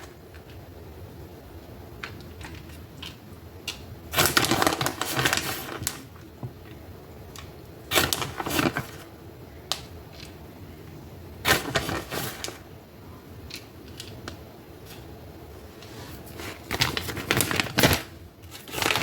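Plastic packaging crinkling and rustling in about four bursts of a second or two each, with a few small clicks of kitchen handling between them.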